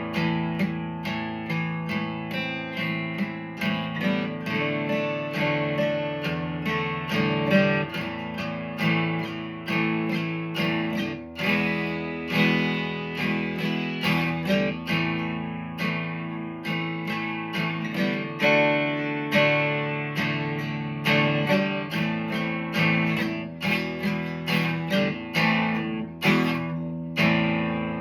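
Acoustic guitar strummed in a steady rhythm: an instrumental break with no singing.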